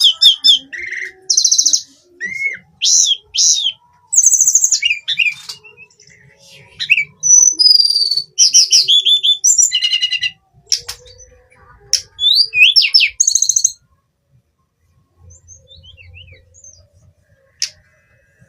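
Hill blue flycatcher singing a fast, varied string of high whistled notes, trills and up-and-down sweeping phrases; the song stops about fourteen seconds in, leaving only a few faint notes.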